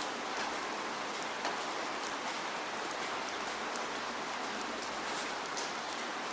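Steady rain falling: an even hiss of rainfall with scattered louder individual drops ticking on a surface.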